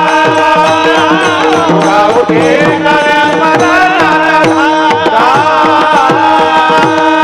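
Marathi kirtan music: tabla strokes in a quick, steady rhythm under a harmonium's held note and a gliding melody line.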